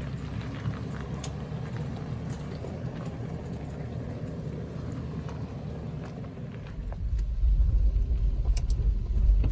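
Vehicle driving a rough off-road trail: a steady low rumble with a few faint clicks, growing louder about seven seconds in.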